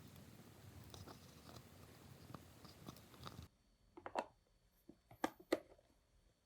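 Faint handling noises with small ticks, then after a sudden drop in background hiss, a few sharp clicks and taps in the second half, typical of utensils and containers being handled.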